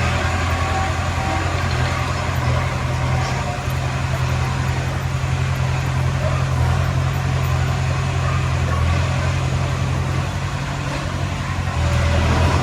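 Diesel engine of heavy earthmoving equipment running steadily with a deep hum. It eases off slightly and picks up again near the end.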